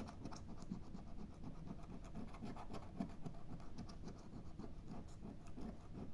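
Scratch-off lottery ticket being scratched: the coating rasped away in quick, light, repeated strokes.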